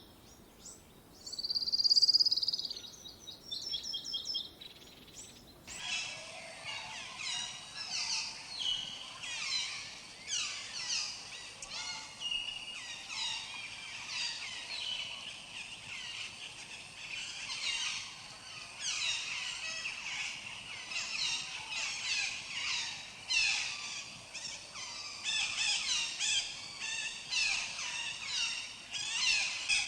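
Tropical birds calling: for the first few seconds a single bird gives a few separate calls, the loudest about two seconds in. About six seconds in a dense chorus of many birds chirping and whistling over one another starts abruptly.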